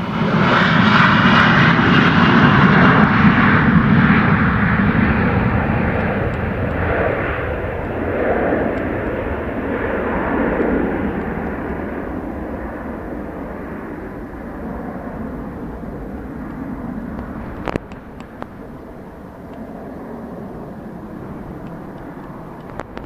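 Embraer jet airliner's turbofan engines passing close: a loud roar that starts suddenly, is strongest in the first few seconds, then fades slowly as the jet moves away.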